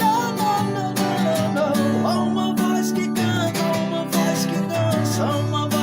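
Acoustic guitar music: chords played steadily with a melody line that slides between notes over them.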